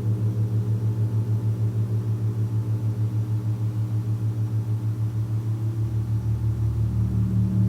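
Large gong sounding a sustained low drone with several overtones above it, pulsing quickly and evenly. Near the end it swells, with a deeper rumble and a higher tone coming in.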